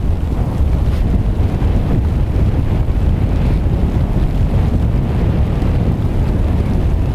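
Strong wind buffeting the microphone, a steady loud rumble with no let-up.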